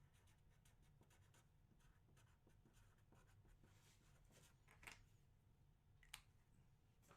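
Near silence with faint scratching and rustling of small handling noises, and two small clicks, the second about six seconds in.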